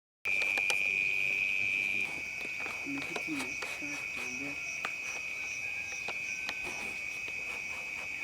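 Insects such as crickets trill steadily and high, starting suddenly out of silence. The trill is loudest for the first two seconds, then settles slightly lower, with faint scattered clicks.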